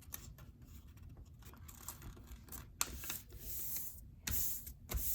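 A sheet of printer paper being folded and creased by hand: soft rustling and rubbing, with a few sharper paper crackles in the second half.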